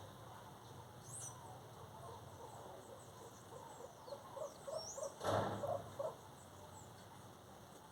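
Birds calling: scattered high chirps, a quick run of short repeated low notes, and a louder noisy burst about five seconds in.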